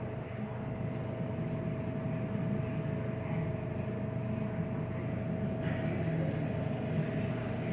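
Car wash machinery running steadily: a constant mechanical drone with a low rumble and a steady whine over it.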